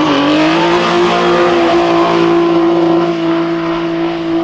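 Nissan 350Z's 3.5-litre V6 revving up sharply as the car pulls away, then holding a loud, steady high engine note as it drives off on the wet road.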